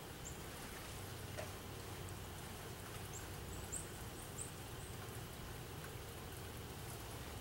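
Low steady rumble of a freight train of tank cars on the track. Over it, a small bird gives short, high, rising chirps: one near the start and a quick run of four or five from about three seconds in.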